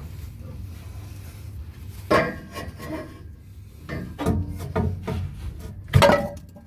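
Metal clanking and scraping from exhaust parts being handled: several sharp knocks that ring briefly, the loudest near the end, over a low steady hum.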